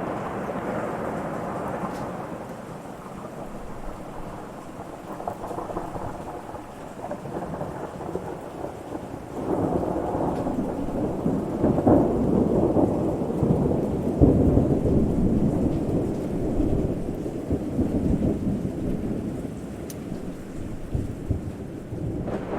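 Thunder rumbling over steady rain, with a louder roll building about halfway through, peaking in a couple of sharper claps, then slowly fading.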